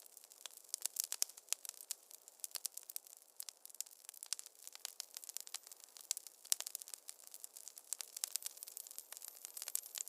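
Wood fire crackling in a fireplace: a dense, irregular run of sharp snaps and pops, some louder than others.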